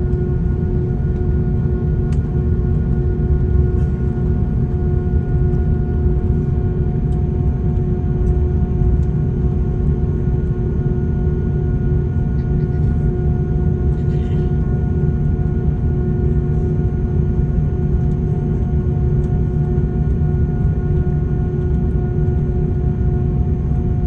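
Airbus A340-600 cabin noise with its Rolls-Royce Trent 500 engines running: a steady low rumble under a constant droning hum of several held tones.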